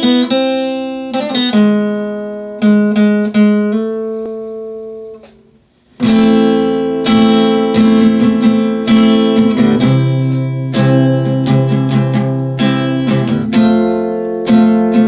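Guitar intro to a song: a few chords struck and left to ring out, a brief pause about five and a half seconds in, then steady strumming.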